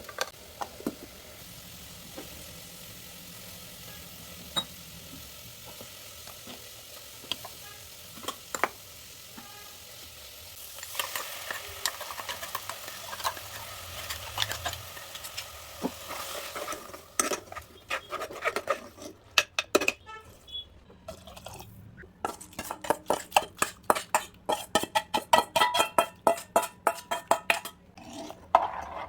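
Kitchen cooking sounds: a spoon stirring and scraping in a pot or pan, with scattered clinks of utensils. About halfway through, the strokes turn quick and dense.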